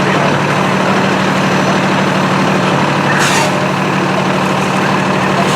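Fire engine's diesel engine idling steadily, with a short hiss about three seconds in.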